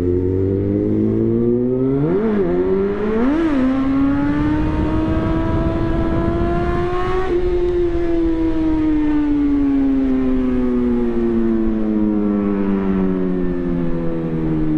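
Suzuki GSX-R1000 inline-four running through a replica SC-Project exhaust: the revs are blipped twice in quick succession, then climb steadily to a peak about seven seconds in and slowly fall away.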